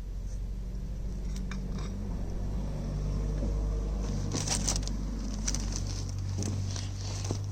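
Hot engine oil pouring out of the open sump drain hole into a drain pan: a steady low gush with crackling spatter that grows stronger about four seconds in.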